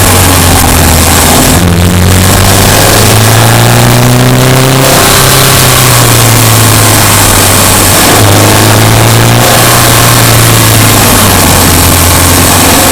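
Subaru Impreza Sport's 2.0-litre flat-four engine running loud while driving, its revs rising and falling several times.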